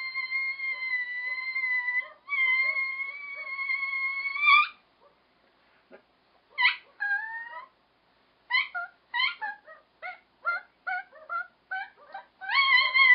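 High-pitched squeaky whining done as a comic bird-call imitation: two long held whines, then after a short pause a run of short chirping squeaks, some sliding in pitch.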